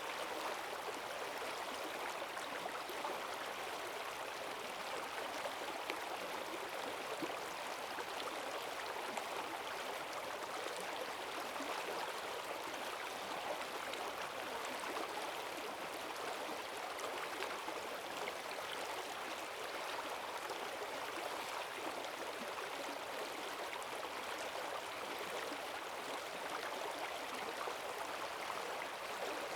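Forest stream running fast and full after heavy rain, a steady rushing of water over rocks with no breaks.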